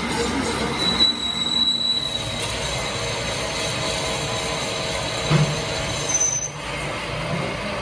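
Metalworking machinery running with a steady mechanical noise and high-pitched metal-on-metal squeals. One squeal holds for about a second early on, and a shorter, higher one comes near the end.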